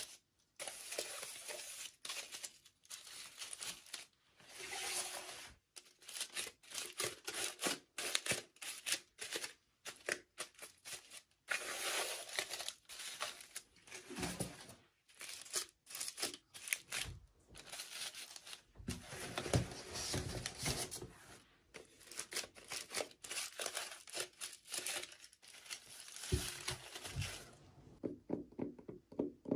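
Toy packaging being torn open and crinkled by hand, in irregular bursts of tearing and rustling.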